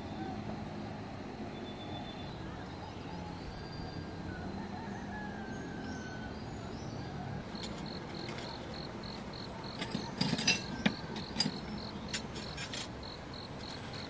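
Outdoor morning ambience with birds calling: faint gliding whistles, then a high chirp repeated about three times a second from about halfway through. A few sharp clicks and knocks come near the end.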